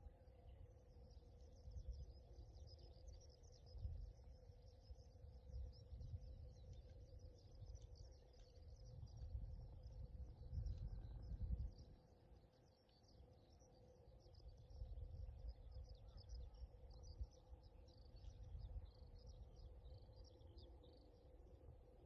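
Small birds chirping and twittering faintly in a continuous, dense chatter, over a low fluctuating rumble and a faint steady hum.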